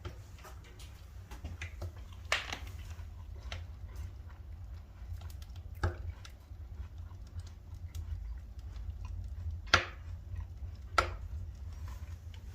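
Wood fire burning in a stove firebox, crackling with scattered small ticks and four sharper pops, over a steady low rumble.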